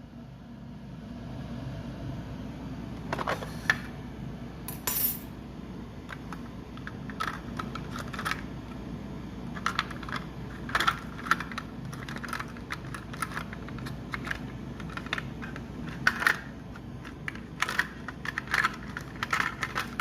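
Irregular small clicks, taps and rattles of hard plastic and metal parts of a Nespresso Inissia capsule machine being handled and worked at to free a jammed capsule, over a steady low hum.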